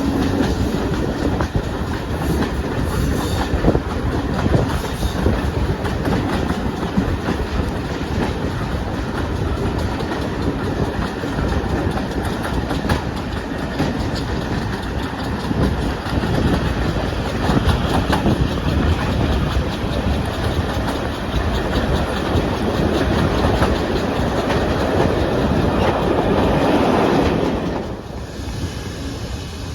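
A train running along the track, with a steady rumble of wheels on rails. The noise falls away sharply near the end.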